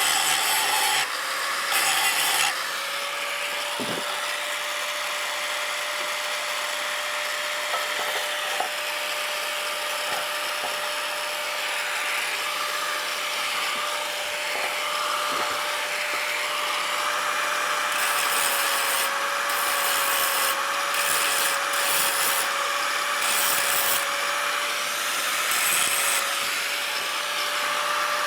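Power tool running with a steady whine while grinding against metal, a continuous rasping scrape under it. Harsher hissing bursts come near the start and again in several spells past the middle.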